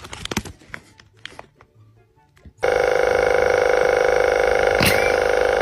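Faint scattered clicks and rustles, then about two and a half seconds in a loud, steady ringing tone with a fast flutter starts suddenly and holds, like an electric bell or buzzer.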